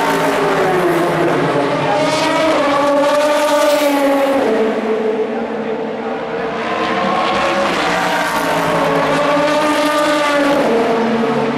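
Race car engines running at full throttle past the track. The engine note climbs, then drops sharply about four and a half seconds in, and again near the end.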